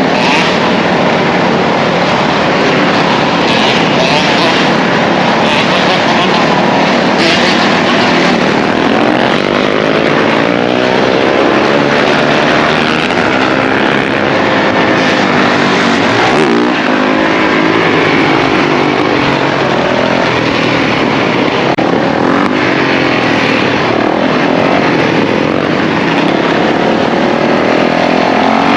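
A pack of dirt bike and ATV engines running together, several revving at once so that their pitches rise and fall over one another in a continuous loud drone.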